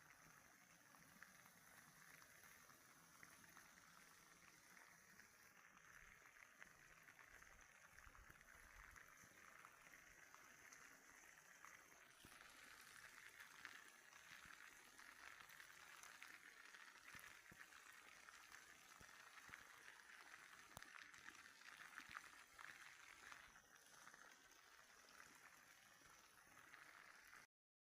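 Rainwater runoff flowing across the ground, a faint steady sound of running water that cuts off suddenly near the end.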